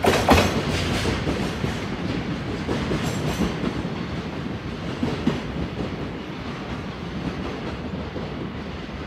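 The last container wagons of a freight train rolling past, with a couple of wheel clacks over the rail joints at the start, then the rumble of the wheels fading steadily as the train moves away.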